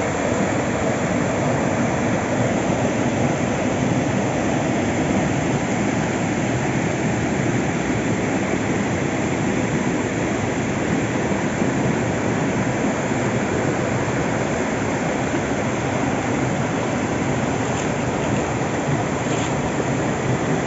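Steady rush of flowing stream water, an even noise that holds level throughout.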